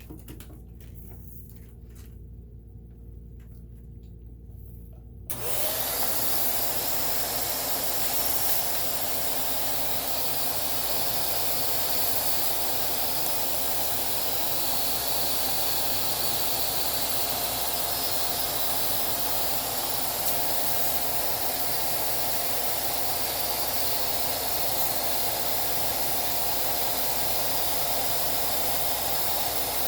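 A vacuum cleaner switches on about five seconds in and then runs steadily, a constant rushing noise with a steady whine, while cleaning out a sewing machine. Before it starts there are only a few faint handling clicks.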